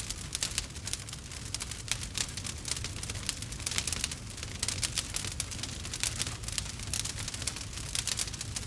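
Wood fire crackling in a fireplace: a dense, irregular run of small sharp pops and snaps over a steady low rumble of the burning logs.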